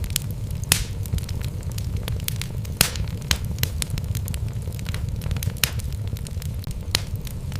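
Wood fire burning in a fireplace: a steady low rumble of flames with frequent crackles and sharper pops of burning logs, the loudest pops a second or two apart.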